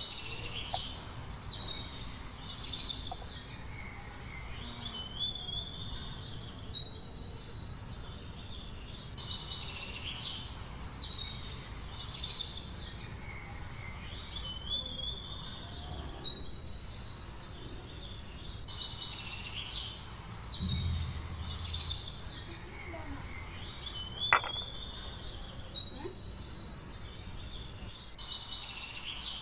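Songbirds chirping and warbling in short repeated phrases over a steady low background hiss, with one sharp click about three-quarters of the way through.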